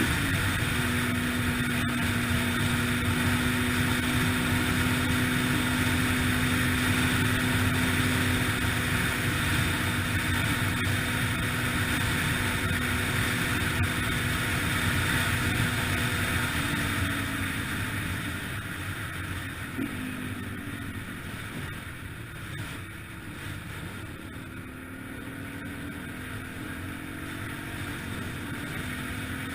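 2003 Yamaha TTR-125LE dirt bike's single-cylinder four-stroke engine running at a steady speed, with wind on the microphone. About 17 seconds in it drops off and quietens, then the engine picks up and revs higher again near the end.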